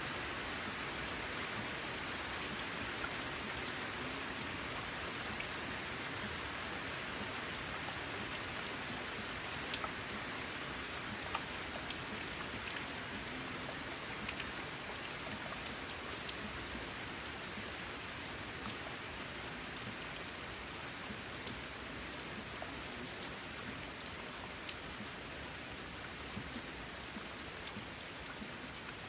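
Steady rain falling, an even hiss dotted with the sharp ticks of single drops, a few louder than the rest. It grows slowly a little quieter.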